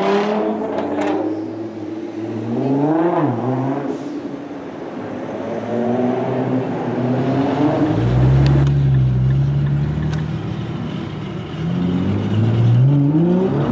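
Nissan GT-R R35's twin-turbo V6 accelerating, the revs climbing and falling back several times, with a spell of steady loud running around the middle.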